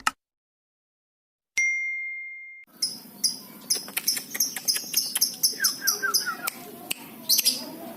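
A single bell-like ding rings out about a second and a half in and fades over about a second. Then birds chirp and call: quick sharp high chirps and clicks, a short run of falling calls, and warbling notes.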